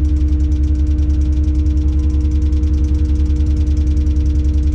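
The Tadano 180G-5 crane's diesel engine is running steadily, heard inside the operator's cab as a loud low drone with a fast, even pulse and a steady hum above it.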